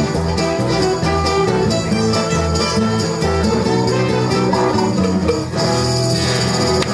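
Live rock band playing an instrumental passage with guitar, bass and drums.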